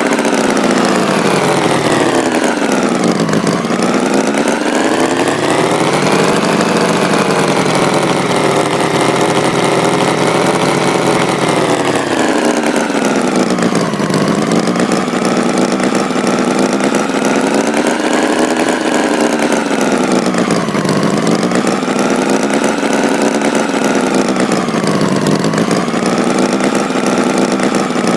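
Tractor engine running without a break, its pitch slowly sinking and rising again every several seconds.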